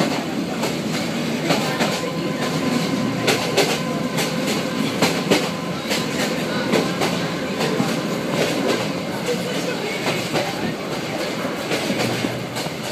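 Yangon Circular Railway passenger coach running along the track, heard from inside: a steady rumble with irregular clattering knocks and rattles from the wheels and carriage.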